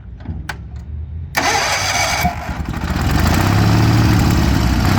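Wheel Horse D200 garden tractor engine starting: a few clicks, then it cranks about a second and a half in, catches, and settles into steady running that grows louder over the last two seconds.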